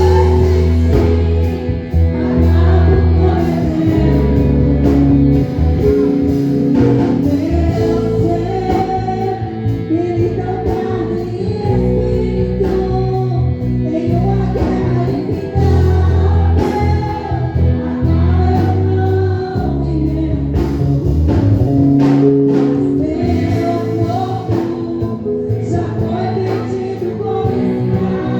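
Gospel worship song: voices singing a melody over instrumental accompaniment with sustained bass notes.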